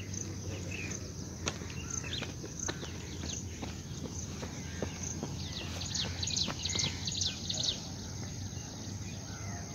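Small birds chirping in quick runs of short, high, falling notes, thickest in the middle, with scattered single ticks, over a steady low hum.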